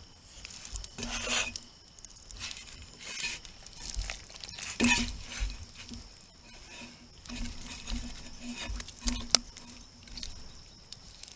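A spit-roasted whole chicken being cut and pulled apart: irregular knife scrapes, tearing and small clicks as the joints come away.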